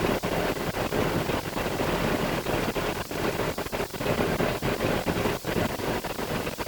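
Concrete mixer truck driving, its diesel engine and road noise heard as a dense, rough noise with many brief dips in level.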